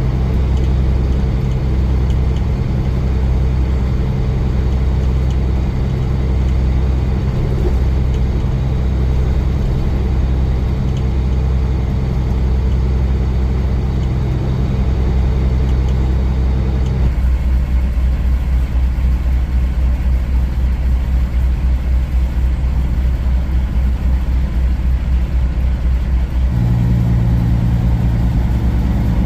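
Kenworth semi truck's diesel engine droning steadily, heard from inside the cab while driving. The engine note changes about two-thirds of the way through and again near the end.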